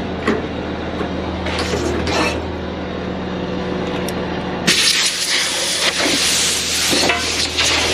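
CAT 340 excavator's diesel engine running steadily, heard from the operator's cab, with a few light clicks. About halfway through, a loud steady hiss suddenly sets in over it.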